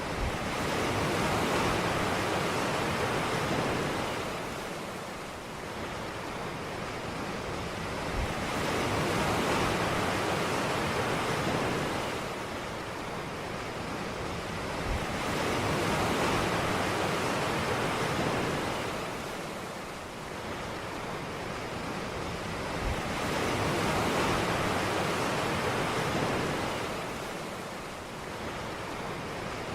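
Ocean waves breaking and washing up a beach. The surf rises and falls in slow swells, about one every seven seconds, four in all.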